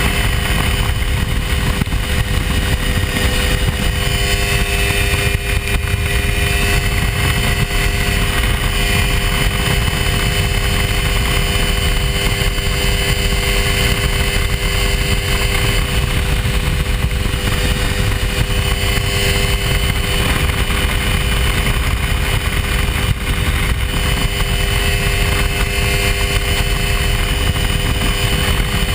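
Hy-Tek Hurricane ultralight's engine and propeller running steadily in flight at an even pitch.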